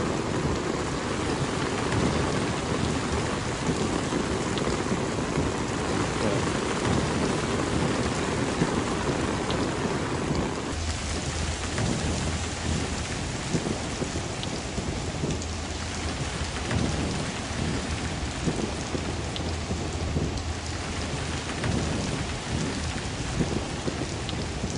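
Heavy rain pouring down in a steady hiss on surfaces all around; about eleven seconds in its tone shifts, with less of the middle and a lower rumble underneath.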